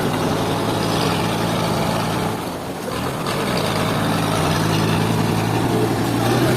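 Sawmill machinery running steadily: a low engine-like hum with a rushing noise over it, easing off briefly a little before the middle.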